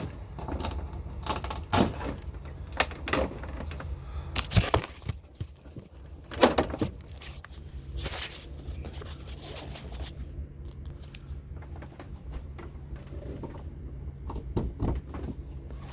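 Clicks, knocks and rattles of hands handling a countertop dishwasher and its power cord on a kitchen counter, thickest in the first half, over a steady low hum.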